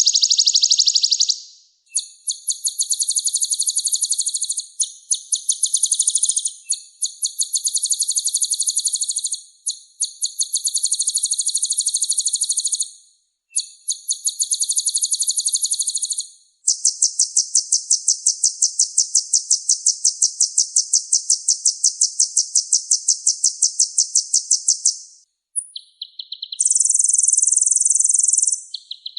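Kolibri ninja sunbird singing: a series of fast, high-pitched trills made of rapidly repeated notes, in phrases of two to three seconds with short pauses, then one long unbroken trill of about eight seconds before shorter phrases return near the end.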